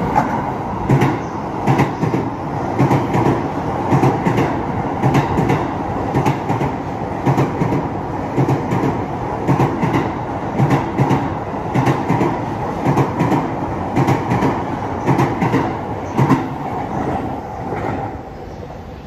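E257 series electric multiple unit passing through a station without stopping: its wheels click over the rail joints in a steady clickety-clack, often in close pairs, over a running rumble. The clatter fades near the end as the last car goes by.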